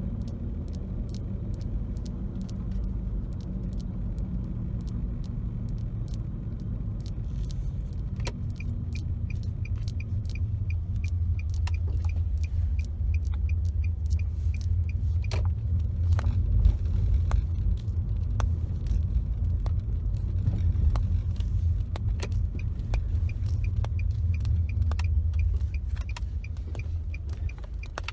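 Steady road rumble inside a moving car's cabin, growing louder about a third of the way in, with scattered light fingertip taps and clicks on the car's interior. From about a third of the way in, a light regular ticking about one and a half times a second runs underneath.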